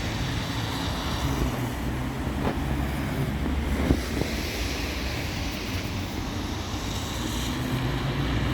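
Steady outdoor background noise: a low rumble under an even hiss, with one brief knock about four seconds in.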